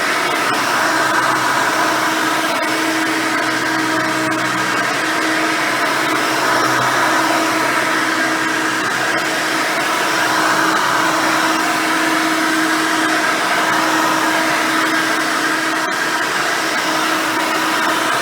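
Custom Hoover Elite 600 upright vacuum cleaner with a single-row brush roll, running steadily while vacuuming: a constant motor whir with a steady hum.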